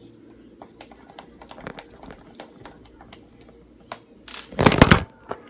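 Slime ingredients being mixed in a bowl: scattered soft clicks and sticky squelches, then a loud, brief burst of handling noise near the end.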